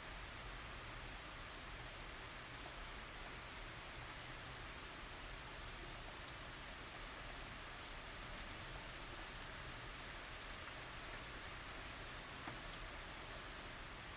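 Steady light rain falling and pattering on surfaces, with many small drop ticks and no thunder.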